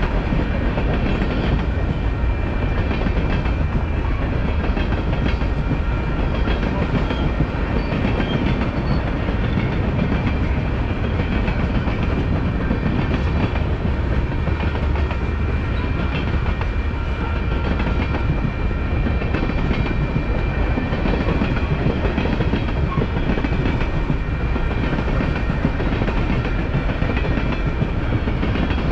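Freight train cars rolling past at steady speed: a continuous rumble of wheels on the rails, with no horn and no change in level.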